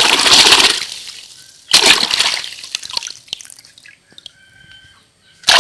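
Toy vehicles being rinsed in water: three loud splashing sloshes, the second about two seconds in and the last at the very end, each fading into dripping.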